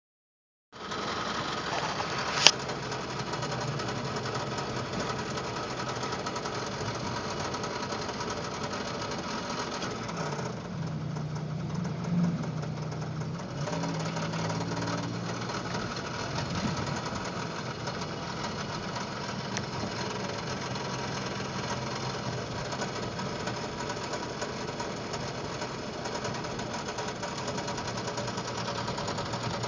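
1995 Toyota 4Runner's 3VZ-E 3.0-litre V6 running while driving, with a bad knocking from the engine that the owner suspects is a worn rod bearing. A single sharp click about two seconds in.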